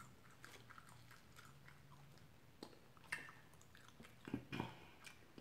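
Faint chewing and mouth sounds of someone eating chicken wings, with a few soft crunchy clicks around three seconds in and again near four and a half seconds.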